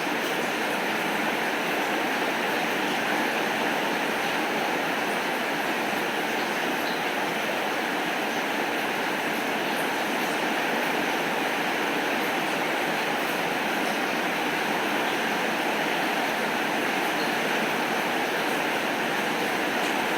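Steady rainfall, an even hiss with faint scattered ticks and no thunder.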